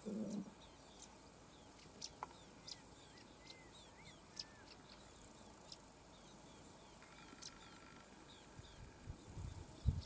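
Small wild birds chirping in the bush: many short, high chirps and quick downward notes, with a few whistled glides. There is a low thump at the start and a few low knocks near the end.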